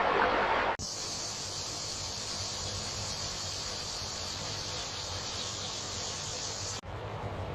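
Steady, high-pitched insect chorus, like cicadas or crickets, starting abruptly about a second in and cutting off suddenly near the end.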